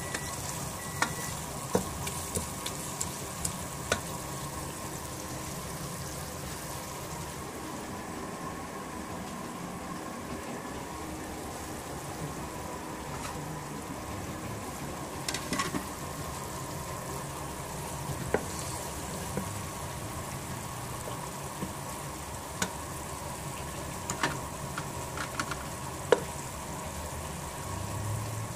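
Spinach and potatoes sizzling in oil in a cooking pot, with scattered sharp taps and scrapes of a spatula against the pot as they are stirred.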